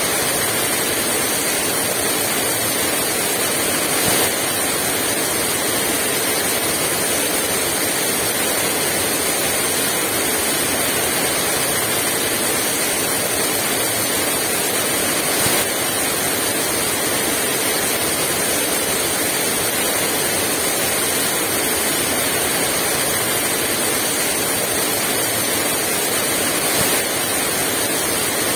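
Heavy rain falling steadily as a dense, even hiss, briefly a little louder three times.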